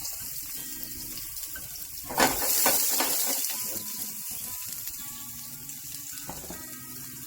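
Sliced onions sizzling in hot oil in a frying pan, with a sudden loud surge of sizzle about two seconds in that dies back to a steady hiss.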